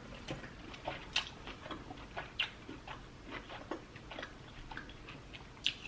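A person chewing lobster tail meat close to the microphone, with irregular wet mouth clicks and smacks. A few smacks stand out louder, about a second in, midway, and near the end.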